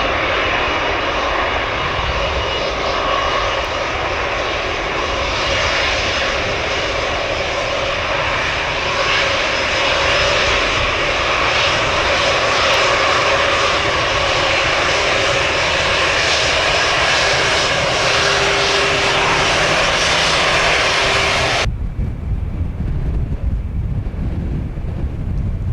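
Jet airliner engines running loud at high power, with steady whine tones over the roar. About 22 seconds in, the sound cuts off suddenly, leaving wind noise on the microphone.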